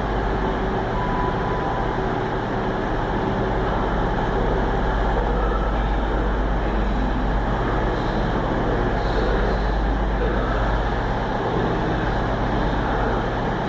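Diesel multiple unit's underfloor engines running steadily at the platform, a constant low drone with no change in pitch.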